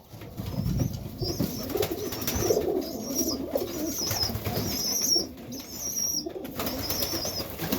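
Serbian highflyer pigeons cooing continuously in the loft, with short high chirps repeating every second or so over the cooing.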